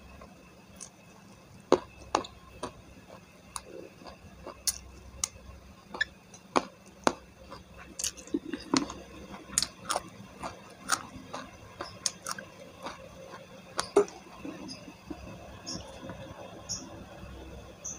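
Close-miked eating sounds of a person chewing smashed fried chicken and rice eaten by hand: irregular wet clicks, lip smacks and squishes, with a few louder sharp smacks about two seconds in and near fourteen seconds.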